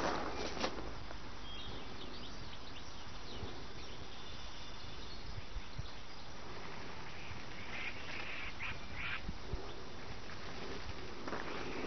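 Birds calling over a steady outdoor background hiss, with a few short calls, the clearest about two-thirds of the way through.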